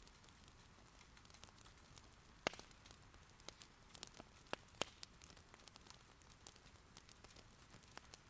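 Firewood burning in an irori hearth, crackling with scattered sharp pops, the loudest about two and a half seconds in, over a faint steady patter of rain.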